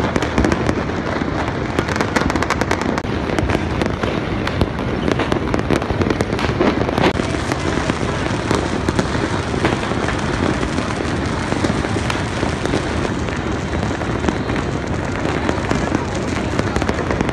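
Countless firecrackers and fireworks going off across a city at once: a dense, continuous crackle of pops and bangs with no let-up.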